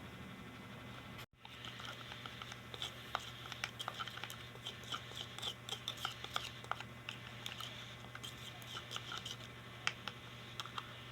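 Cockatiel chick being hand-fed: a rapid, irregular run of small beak clicks and soft squeaks as it takes food, over a faint steady hum, after a brief cut to silence just over a second in.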